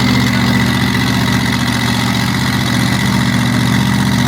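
Modified pulling tractor's twin supercharged, methanol-injected 526 Chrysler Hemi engines running at a steady idle.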